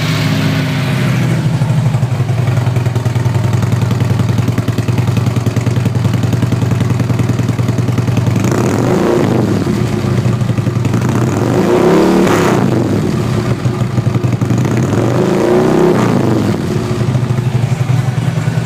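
Harley-Davidson Street Glide V-twin with a Screaming Eagle Stage 1 air cleaner and a Rinehart 4.5-inch Racing exhaust, idling just after start-up. The throttle is blipped three times, about 9, 12 and 16 seconds in; the revs rise and fall each time, and the middle blip is the strongest.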